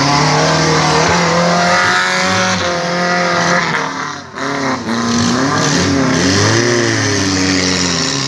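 An off-road 4x4's engine revving hard under load as it climbs a steep dirt slope, the revs rising and falling repeatedly. The engine briefly drops off about four seconds in, then picks up again.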